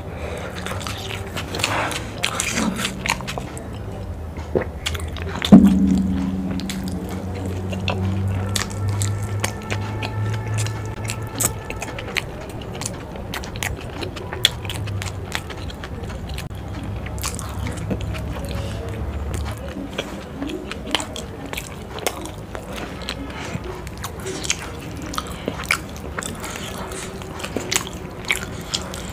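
Close-miked chewing of saucy chilli momos: wet mouth sounds, lip smacks and squelching clicks throughout. A sharp knock about five and a half seconds in.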